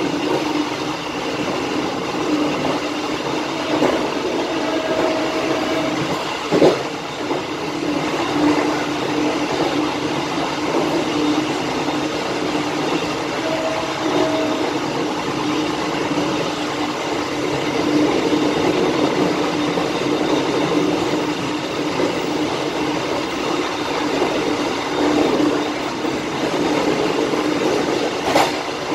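Passenger train running along the track, heard from the rear carriage: a steady rumble and clatter of wheels on rails. There are two brief squeals, one about four seconds in and one near the middle, and two sharp knocks, one about six and a half seconds in and one near the end.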